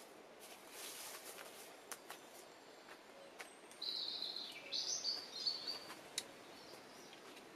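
A songbird sings a quick jumble of high chirping notes for about two seconds midway, over a faint outdoor hiss. Scattered clicks and rustles of footsteps and handling sound around it.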